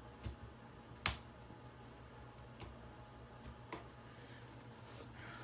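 A few isolated sharp clicks and light taps, the loudest about a second in, over a faint steady hum: hard plastic parts of a Hoover vacuum cleaner being handled and worked apart during disassembly.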